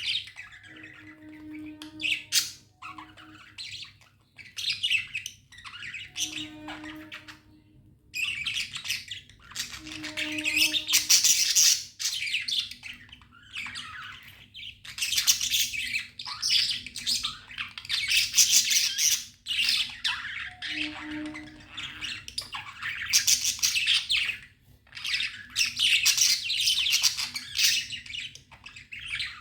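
Pet budgerigars chirping and chattering, with squawky calls that come in bouts of a few seconds and short pauses between them.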